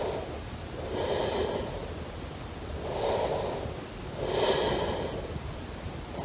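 A person breathing close to the microphone: soft puffs of breath about every one and a half seconds over a low rumble.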